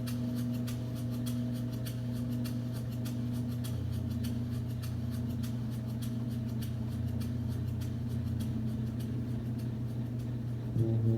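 Singing bowls ringing in a low, steady humming drone, with faint scattered sparkling clicks above it. Near the end a louder tone begins, wavering in a quick regular pulse.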